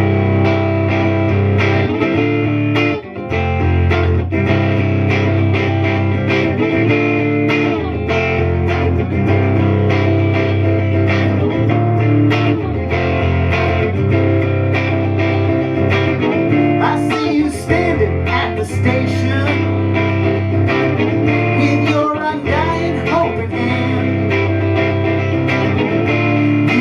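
Guitar-led instrumental music with no singing: a continuous played passage between sung verses.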